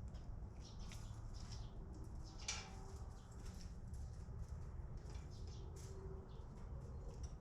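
Chickens moving about the coop, a run of short scratchy rustles and clicks from feet and beaks in the litter, with one sharper click about two and a half seconds in.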